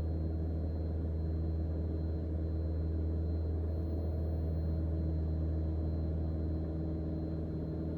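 Single-engine Mooney M20J's four-cylinder Lycoming engine and propeller droning steadily in the cockpit, held at about 2400 rpm in the climb.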